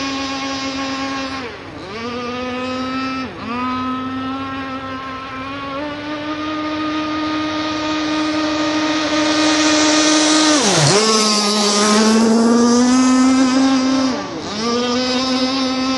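Radio-controlled R42 racing catamaran's motor and propeller running at speed on a straight-away pass: a steady high-pitched tone that drops sharply and picks back up four times, around 1.5, 3, 11 and 14.5 seconds in. It gets louder with a rush of spray hiss around the middle, as the boat comes closest.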